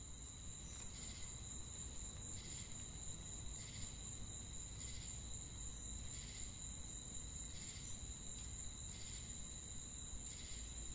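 Chorus of insects giving a steady high-pitched shrill, with a short chirp repeating about every 1.3 seconds, over a soft low rumble.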